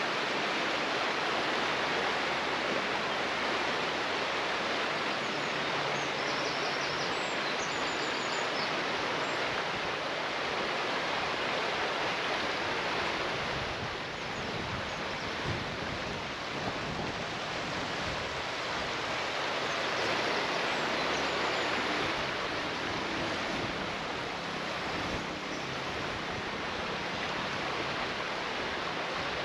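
Steady rush of flowing water, with a few faint bird chirps about a quarter of the way through.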